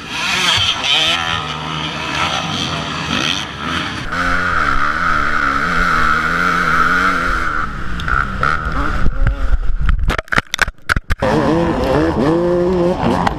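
Dirt bike engine running and revving, its pitch rising and falling. About ten seconds in, the sound cuts out briefly several times.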